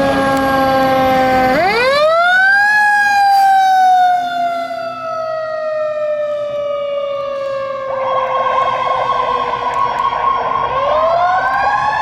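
A fire engine's Federal Q mechanical siren winds down, spins up again to a high wail about a second and a half in, coasts slowly down in pitch, then winds up once more near the end. A second steady tone joins about two-thirds of the way through.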